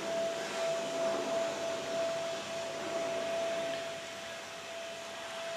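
A steady high-pitched hum over a faint even hiss.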